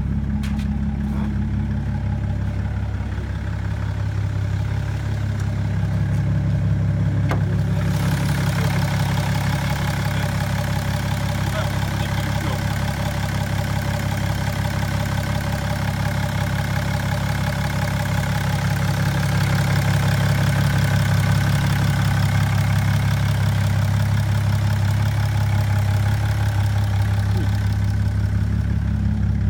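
BMW 335d's twin-turbo diesel straight-six idling steadily through a 3-inch exhaust with a Magnaflow resonator, a low, even engine note. About eight seconds in a brighter hiss joins it and stays.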